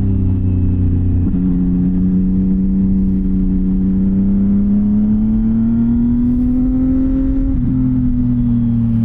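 CFMOTO 675NK's inline-three engine through a titanium full-system exhaust, pulling under way. The revs drop at a gear change about a second in, climb slowly over several seconds, then drop again at another change near the end.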